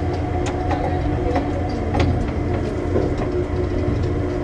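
Interior running noise of an airport people-mover train in motion: a steady low rumble with a steady motor whine and scattered sharp clicks and knocks from the car.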